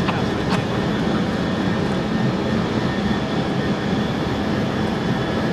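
Steady jet aircraft noise from the E-3A AWACS's four turbofan engines: a low hum with a hiss above it and no change in level, with two faint clicks in the first second.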